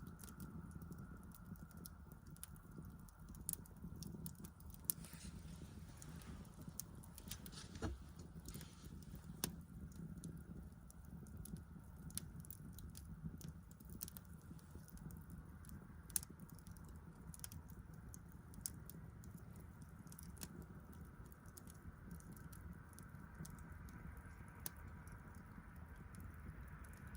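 Wood fire crackling: irregular sharp snaps and pops, a few louder than the rest, over a faint low steady rumble.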